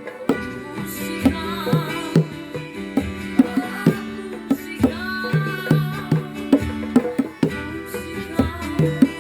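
Music: a folk song with a wavering sung melody over sustained string notes, with bongos struck along in a quick, uneven pattern of sharp hits.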